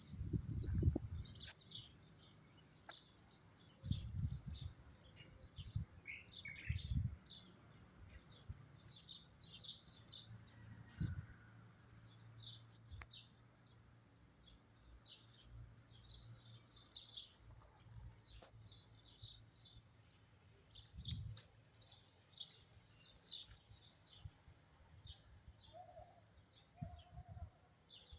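Songbirds chirping in short, scattered high calls, with a few brief low thumps now and then.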